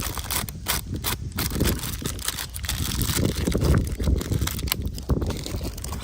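Barber's blade scraping through hair and stubble in a run of short, crisp strokes, several a second, over a low rumble.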